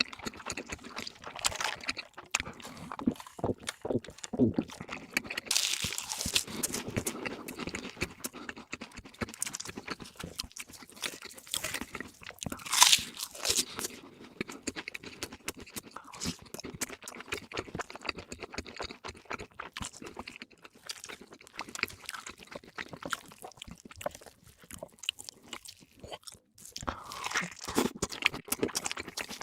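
Close-miked eating: crunchy bites and chewing of crispy fast food, a dense run of crackles with one louder crunch about 13 seconds in.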